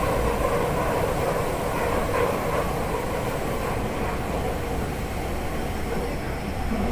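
Commuter train running, heard from inside the passenger car: a steady rumble of wheels on rail that grows a little quieter towards the end.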